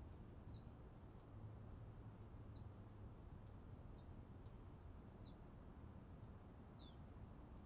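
Faint, short, high chirps from a small bird, five of them one to two seconds apart, each dropping quickly in pitch, over a low steady background hum.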